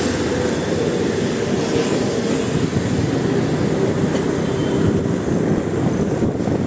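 Steady rumble of a moving vehicle, even and unbroken, with a faint steady hum.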